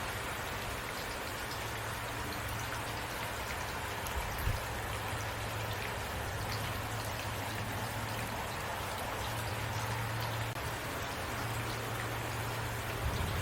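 Heavy rain falling steadily, a dense even patter of drops. A low hum comes and goes underneath, with a brief thump about four and a half seconds in.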